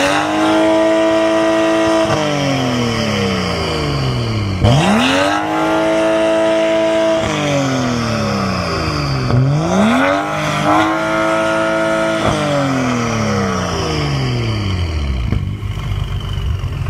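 BMW 535Li's turbocharged inline-six revving through an Armytrix valvetronic exhaust: three revs, each rising quickly, held steady for about two seconds, then falling away slowly, before it settles back toward idle near the end.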